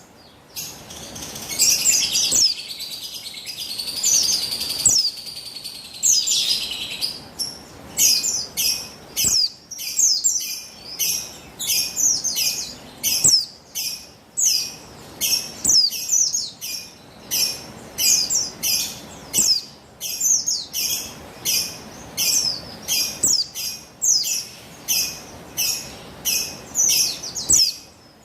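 Female white-eye (pleci buxtoni) calling: a high twittering run for the first few seconds, then short, sharp, descending call notes repeated about twice a second. A call used to stir male white-eyes into song.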